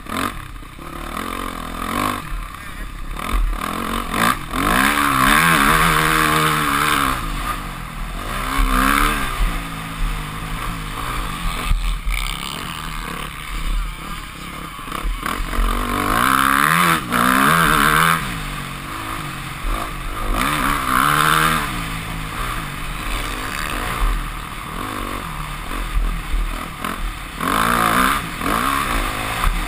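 Yamaha YZ250F four-stroke single-cylinder motocross engine being ridden hard, its pitch rising and falling again and again as the throttle is opened and closed through the track's sections, with several sharp climbs in revs.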